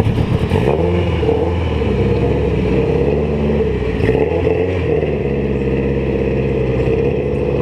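A car engine revving, its pitch rising and falling twice over a steady engine drone.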